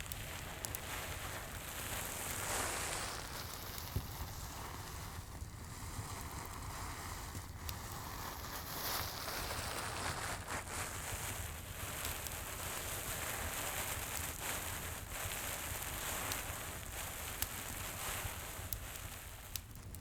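A crinkly Santa-shaped item handled and crackled close to the microphone, a continuous crinkling rustle with scattered sharp clicks, over a crackling fireplace.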